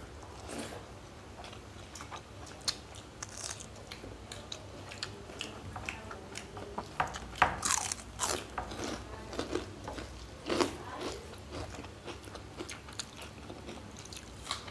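Close-up eating sounds: chewing and biting, with irregular crisp crunches of fried papad between mouthfuls of rice eaten by hand. The crunching comes thickest about halfway through.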